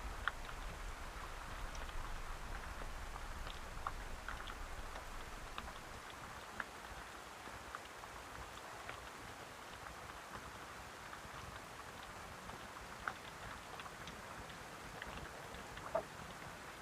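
Steady rain falling, with individual drops landing sharply on a nearby surface, a few louder than the rest at irregular moments. A low rumble underneath fades out about five seconds in.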